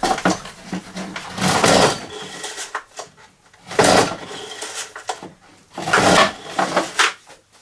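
Pull-start recoil cord of a Stihl BR86c two-stroke leaf blower yanked three times, about two seconds apart, cranking the engine over without it firing. The owner puts the non-start down to a gummed carburettor, which is leaving the spark plug dry.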